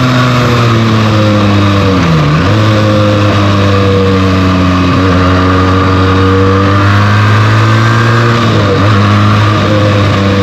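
Benelli TNT 300's parallel-twin engine running on its stock exhaust while riding: the engine note eases down over the first two seconds, dips sharply twice (about two seconds in and near the end) and otherwise holds steady, over a steady rush of wind noise.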